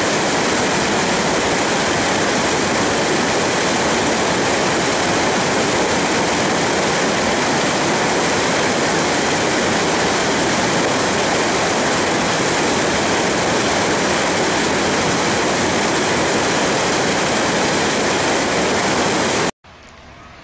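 Steady rush of stream water running over rocks, which cuts off suddenly near the end.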